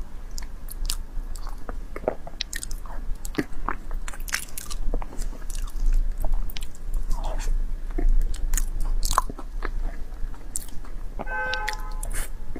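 Close-miked chewing of soft durian flesh: wet mouth clicks and smacks that come irregularly throughout.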